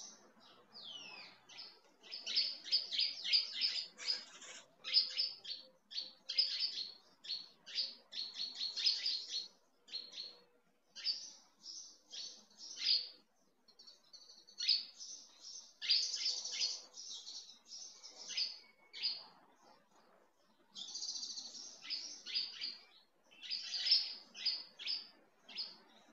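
Songbird chirping, in rapid runs of short, high notes broken by brief pauses.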